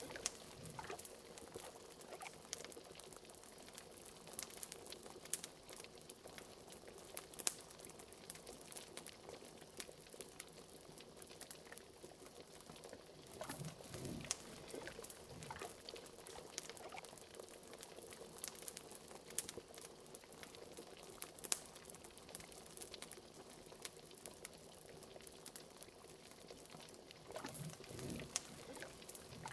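Liquid bubbling steadily at a boil in a pot, with the scattered sharp crackles of a wood fire. A couple of deeper gurgles rise out of the bubbling.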